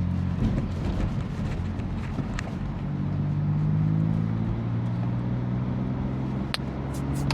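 BMW F80 M3's twin-turbo inline-six running at low revs in city driving. Its note rises slightly about three to four seconds in, then holds steady. A few sharp clicks come near the end.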